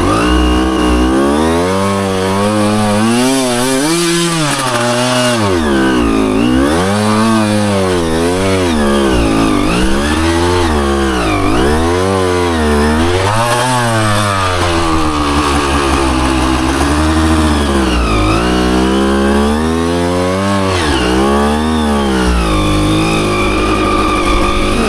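Dirt bike engine revving up and down over and over as the throttle is worked on a single-track trail, each rev lasting about a second or two, steadier near the start and the end.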